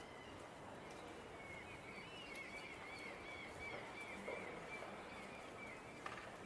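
A bird chirping in a quick run of short, high calls for about four seconds, over steady background noise.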